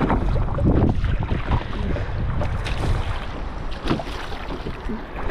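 Wind buffeting the microphone and water sloshing and splashing around a kayak on choppy sea, with irregular surges and a few sharp knocks as it is paddled.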